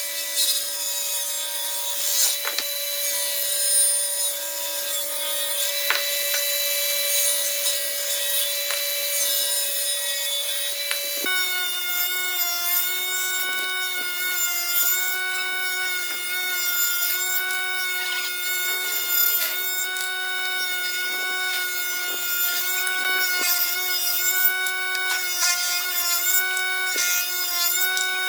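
Electric woodworking power tool running with a steady whine over a hiss as it works wood. About eleven seconds in, its pitch drops and stays lower.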